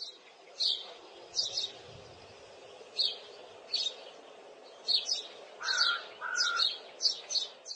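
Small birds chirping, a dozen or so short high calls coming irregularly, over a faint steady background noise.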